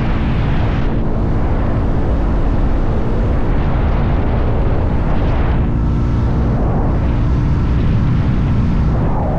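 Motorcycle engine running steadily at cruising speed, with heavy wind noise on the microphone.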